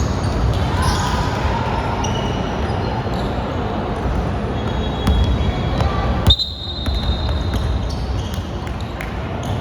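Basketball game play in a gym: the ball bouncing on the court among many short knocks and squeaks, over a steady background hubbub. About six seconds in comes one sharp knock, followed by a high steady tone lasting over a second.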